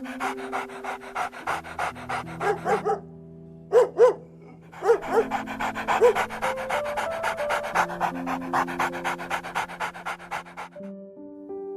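A dog panting rapidly, about six breaths a second, with a short break about three seconds in where two louder sharp sounds stand out before the panting resumes. Soft background music plays underneath.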